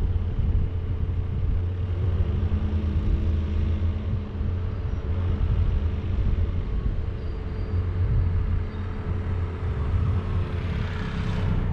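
Vehicle engine and road noise heard on board, a steady low rumble. A louder hiss swells up near the end.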